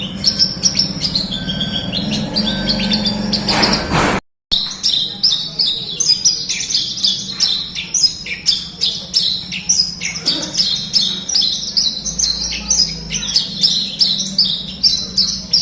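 Javan bush lark (branjangan) singing a fast, unbroken stream of high chirps and trills. A steady low hum sits under the first four seconds, then the audio drops out for a moment about four seconds in before the song resumes.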